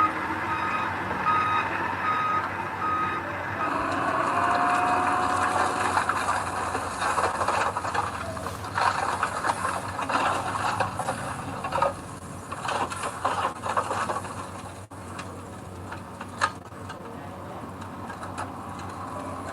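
A heavy construction vehicle's reversing alarm beeps evenly for the first few seconds and then stops. The machine keeps running with a steady engine noise and clanking, rattling metal.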